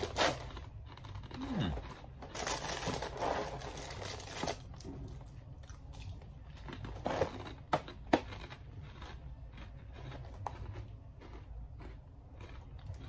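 Dry confetti cake cereal puffs being chewed and crunched, with a few sharp crunches about seven to eight seconds in. The plastic liner bag inside the cereal box crinkles for about two seconds, starting some two seconds in.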